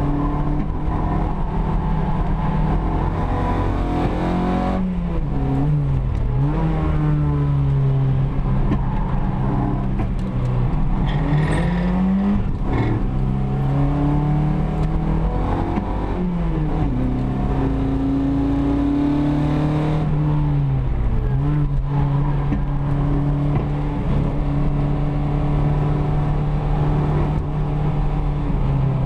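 Opel Kadett GT/E's four-cylinder engine pulling hard, heard from inside the cabin. Its pitch drops several times as the car slows for bends and climbs again as it accelerates back up through the gears.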